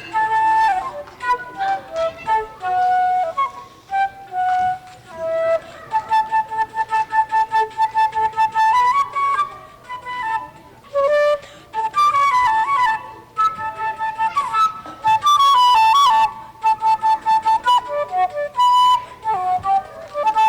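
Flute playing a solo melody of held notes, quick repeated notes and fast runs up and down.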